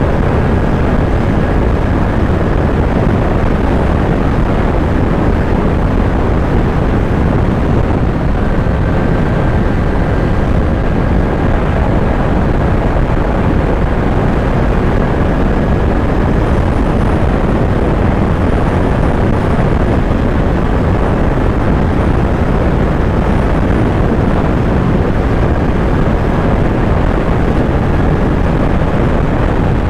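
Kawasaki Z900 motorcycle's inline-four engine running at a steady pace on the move, mixed with loud, steady wind rush over the microphone.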